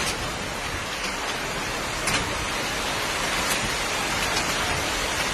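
Heavy typhoon rain falling steadily, a dense even hiss, with a couple of faint clicks.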